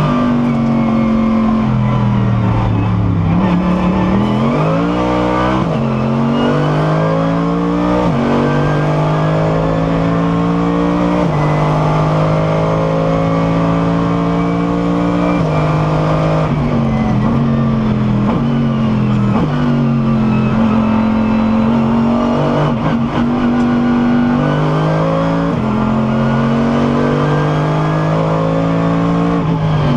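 Mercedes SLS AMG GT3 race car's V8 engine heard from onboard under hard acceleration. The pitch climbs through the revs and drops suddenly at each of several upshifts, with falling and rising pitch where it shifts down for corners.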